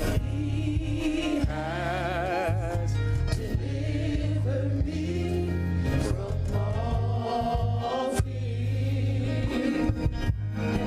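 Gospel worship song: voices singing with strong vibrato over instrumental accompaniment with steady low bass notes and a regular beat.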